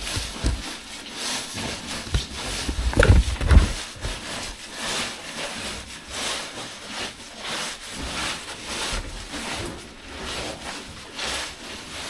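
A caver squeezing into a tight rock passage: clothing and gear scraping and rustling against the rock in repeated short strokes, with a cluster of heavy bumps about three seconds in.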